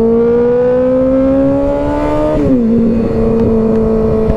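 Kawasaki ZX-6R 636's inline-four engine pulling under throttle, its pitch climbing slowly, then dropping quickly about two and a half seconds in and holding steady.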